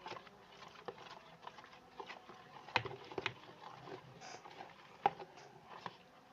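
Homemade slime being handled and stirred with a spoon in its container: irregular small clicks and sticky taps, with a few sharper knocks near three seconds in and about five seconds in.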